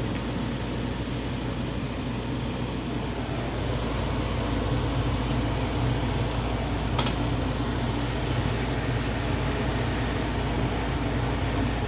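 A steady low mechanical hum with a constant hiss over it, and one light click about seven seconds in.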